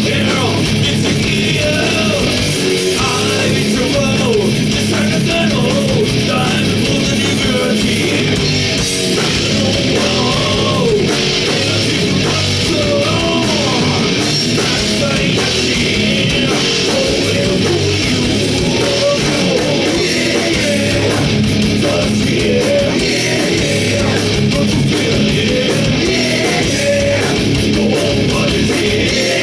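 Loud heavy rock band playing live: distorted electric guitars and drums, with a wavering melodic lead line over them.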